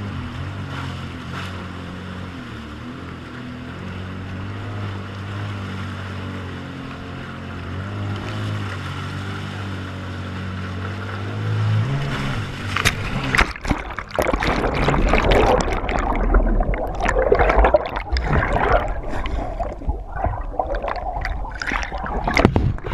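Jet ski engine running on the water, its note stepping up and down, with water noise. From about halfway, loud rushing and splashing water takes over in rough, irregular surges.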